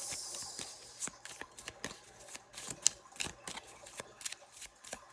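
A deck of tarot cards being shuffled by hand: an irregular run of crisp card snaps and riffles, with one sharper snap about three seconds in.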